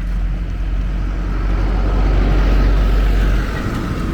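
A motor vehicle passing by: a low rumble with a hiss that builds, then drops off about three and a half seconds in.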